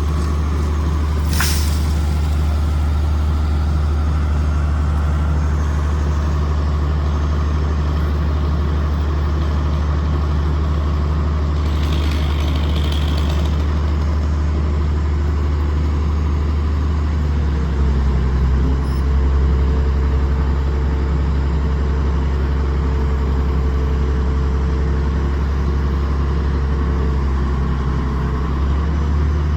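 Bucket truck's engine running steadily. About two-thirds of the way through, its note steps up and gets a little louder, with a faint steady whine over it for several seconds.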